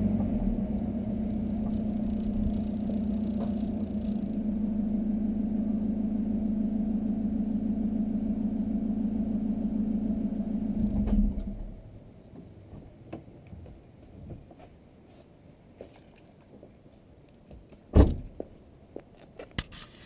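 Volkswagen Golf 2.0 TDI four-cylinder turbodiesel running steadily through a 3-inch high-flow exhaust, then cut off about eleven seconds in. Small clicks and one sharp knock follow.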